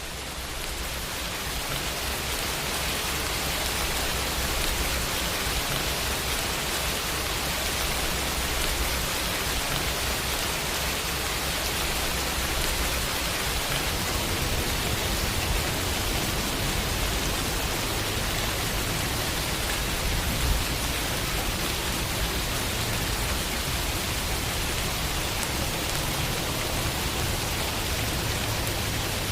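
Steady summer rainfall pattering against a window pane, fading in over the first couple of seconds and then holding even.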